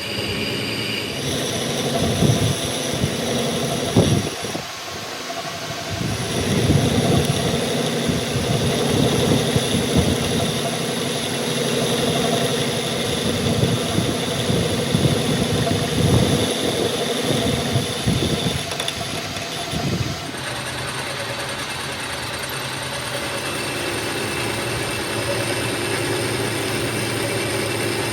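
Heavy machine's diesel engine running steadily, with irregular metallic clunks and knocks over the first twenty seconds, then running more evenly.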